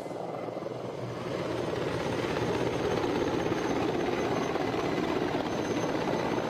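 Mi-24 Hind helicopter flying, its rotor beating rapidly under the running twin turboshaft engines, with a faint high whine. It grows louder over the first few seconds, then holds steady.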